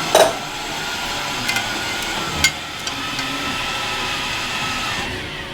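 Small electric motor of a radio-controlled model construction machine whining steadily, with a few sharp metallic clicks and knocks. Near the end the whine falls in pitch and dies away as the motor slows.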